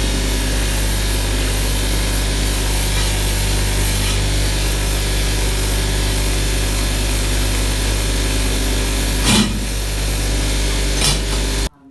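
A power tool runs steadily while working steel parts for motorcycle brake pedals, with a steady low hum under the noise. Two sharp knocks come near the end, and the sound cuts off abruptly just before the end.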